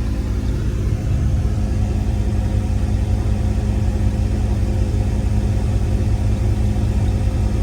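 1995 Dodge Ram 1500's 5.9-litre Magnum V8 running under way with its muffler cut off, a steady low exhaust rumble heard from inside the cab, getting a little louder about a second in.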